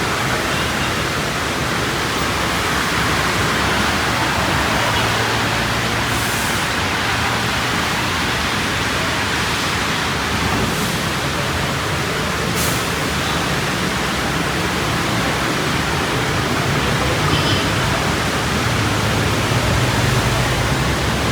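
Heavy rain pouring steadily, a dense even hiss, with a faint low hum underneath and a few brief sharp splashes or hisses near the middle.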